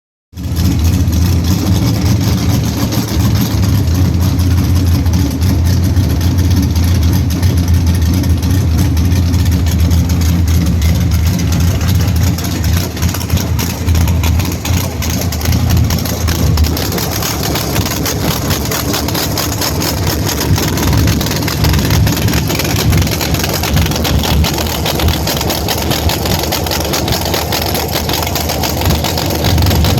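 Drag car's engine running at a loud, steady idle with a deep rumble. About 17 seconds in, the deep low note eases and the running turns rougher and more uneven.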